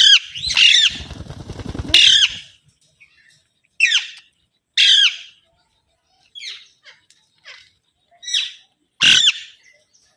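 Pet green parrots giving a string of short, harsh squawks, loudest near the start and again near the end, with a low rustling noise under the first couple of seconds.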